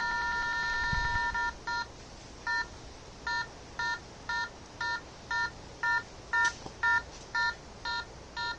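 EMF meter alarm: a steady multi-tone electronic beep that breaks about a second and a half in into short, even beeps, a little under two a second. The ghost hunters take the reading as not caused by themselves or the lights.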